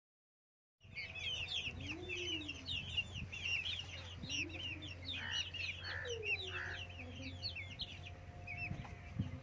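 Australorp chickens calling: low clucks under a dense, constant chatter of rapid high chirps, over a steady low hum. The sound starts abruptly about a second in, after total silence.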